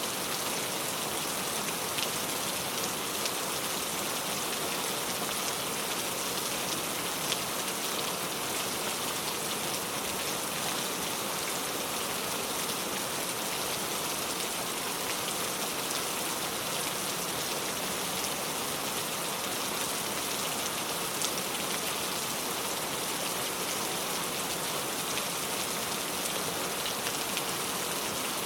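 Steady rain falling on a car, an even hiss with scattered sharper drop hits now and then.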